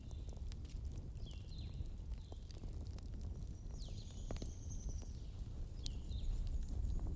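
Campfire crackling, with scattered pops over a low steady rumble. Short high chirps that fall in pitch sound several times, with one longer high tone near the middle.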